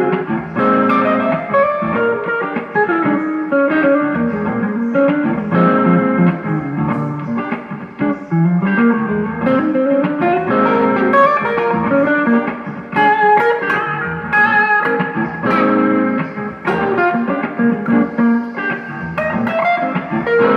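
A guitar being played: a run of changing single notes and chords.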